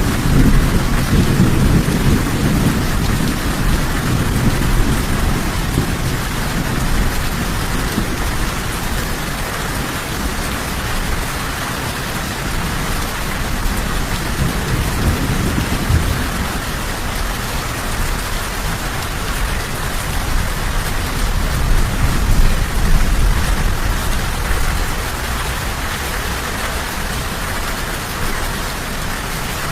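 Steady heavy rain with rolling thunder: a long low rumble at the start, with further rumbles swelling about halfway through and again past two-thirds.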